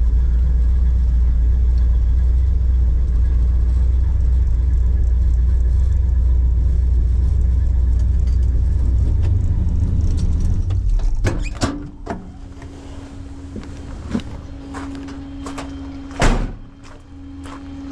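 1966 Ford Mustang engine idling with a steady low rumble, then switched off about eleven seconds in. After it stops come several clicks and knocks, and near the end a loud thunk: a car door being shut.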